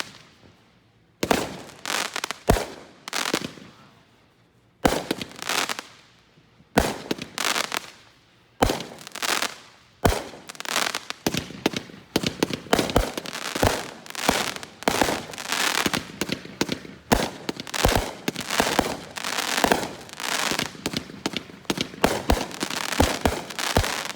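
Consumer multi-shot firework cake ("Blood Money") firing. Its shots come in short volleys with pauses of about a second during the first ten seconds, then build into a rapid, almost unbroken barrage of bangs and crackle.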